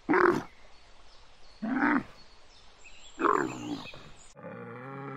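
Dromedary camel giving three short calls, about a second and a half apart. Near the end a cow begins a long, steady, low moo.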